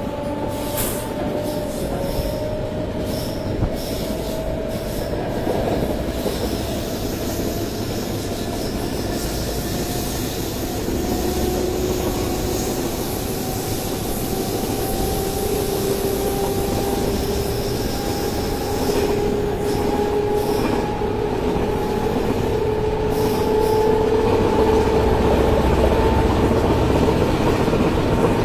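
Indian Railways WAG-9 three-phase electric locomotive accelerating: the whine of its traction motors rises slowly in pitch, over a running rumble that grows louder.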